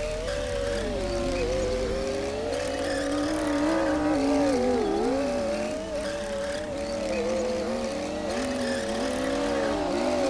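Komatsu D60P bulldozer's diesel engine working under changing load as it pushes soil, its pitch rising and falling every second or two.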